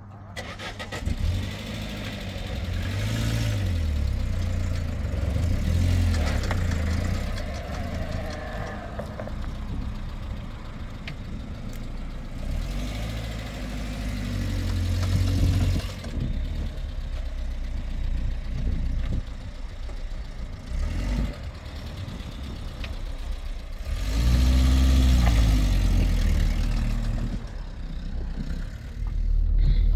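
A Peugeot 405 sedan's engine starts about a second in and runs, revving up and down several times as the car drives off over rough dirt and gravel.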